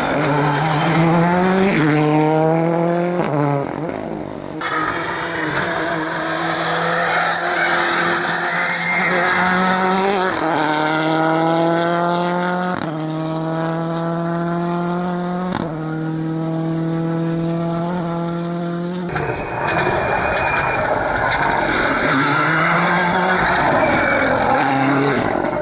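Rally car engines at full throttle, each climbing in pitch and dropping back sharply at every upshift as the car accelerates up through the gears. The sound changes abruptly twice, as if it switches from one car to another.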